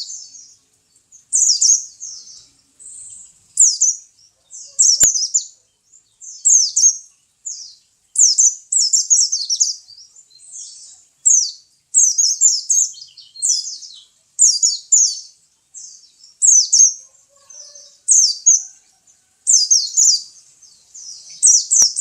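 A pet white-eye (pleci) singing: rapid, high-pitched twittering phrases repeated roughly once a second. A single sharp click comes about five seconds in.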